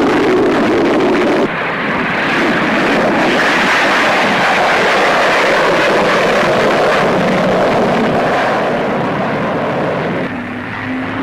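Jet aircraft flying past: a loud, steady engine rush with an abrupt cut in the sound about a second and a half in. A steady low hum comes in near the end.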